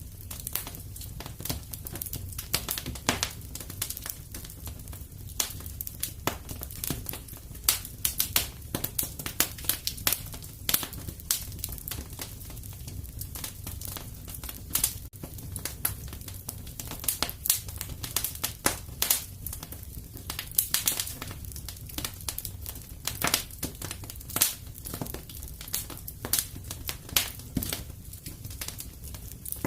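Wood fire in a fireplace crackling, with irregular sharp pops and snaps several times a second over a steady low rumble of burning.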